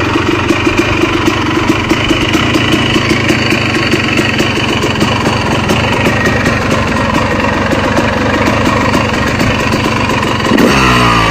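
Yamaha YZ motocross bike engine idling steadily with an even pulse, then revved up near the end.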